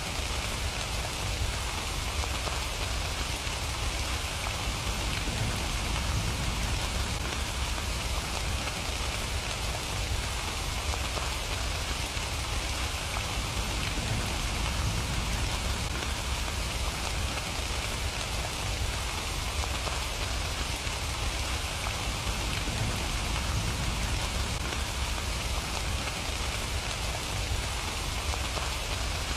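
Steady rain falling on surfaces, an even hiss of many drops with a low rumble underneath and no distinct events.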